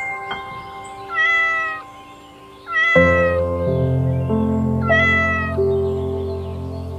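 A domestic cat meowing three times, each meow short, about two seconds apart, over background music.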